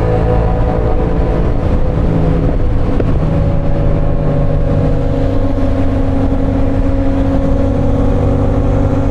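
Parallel-twin sport motorcycle engine running under way, its note shifting about three seconds in and then holding steady, over heavy wind rush on the camera microphone.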